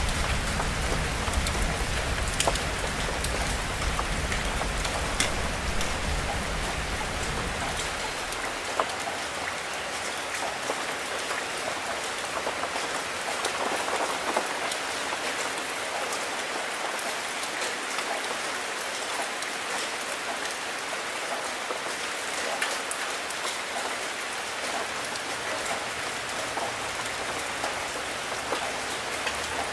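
Steady rain falling, with scattered close drops ticking throughout. A low rumble of thunder runs under the rain and stops about eight seconds in.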